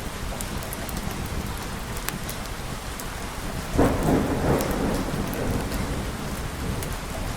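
Steady heavy rain, with a clap of thunder breaking in just past halfway and rumbling off over the next couple of seconds.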